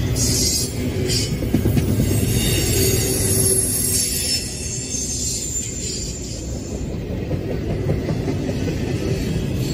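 Double-stack container well cars of a freight train rolling past, a steady rumble of wheels on rail. Thin high-pitched tones ride over the rumble and die away about seven seconds in.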